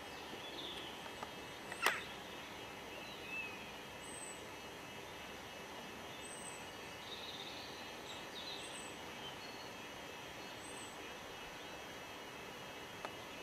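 Steady outdoor background noise with faint, scattered chirps from small birds and a sharp click about two seconds in.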